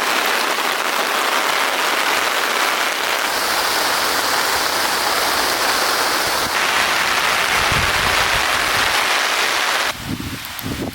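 Heavy rain pouring down in strong wind, a dense steady hiss, with low gusts of wind buffeting the microphone in the second half. About ten seconds in, the rain abruptly becomes quieter.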